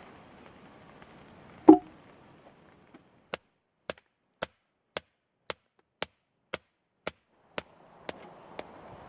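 Wood being chopped: one heavy chop with a dull body about two seconds in, then about a dozen light, sharp taps at an even rhythm of about two a second.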